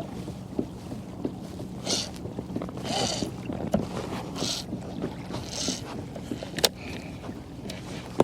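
Water splashing and swishing around a fishing kayak as it moves along, in washes about once a second, with a few sharp knocks on the hull and a low steady hum underneath.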